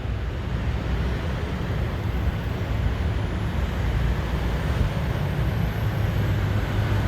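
Steady low rumble of motor vehicle engines, with a faint high-pitched whine above it that wavers slightly in pitch.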